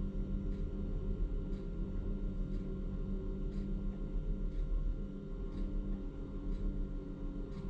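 Truck crane's diesel engine running steadily, a low hum with a few steady tones over it, and a faint tick about once a second.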